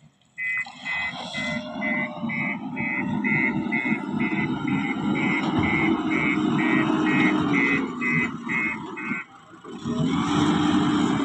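Heavy construction machine's engine running with its reversing alarm beeping about twice a second. The beeping stops about nine seconds in; the engine dips for a moment, then runs on.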